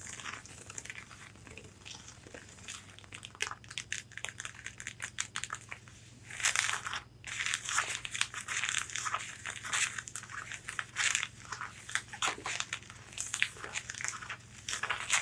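Long fingernails tapping and scratching on the fabric of a corset: rapid runs of sharp little nail taps mixed with rasping scratches, with a short break about seven seconds in.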